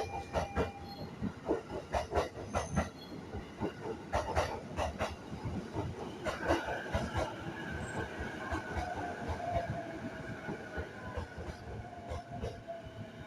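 E233-series electric train pulling into a platform: its wheels clack over the rail joints, and from about six seconds in a whine sets in that falls slowly in pitch as the train brakes.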